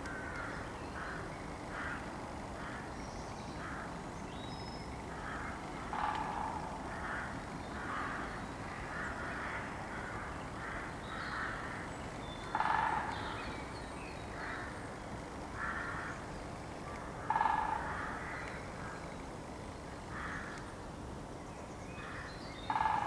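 Birds calling: a run of short, evenly repeated notes about once a second, with four louder, lower calls spaced through it.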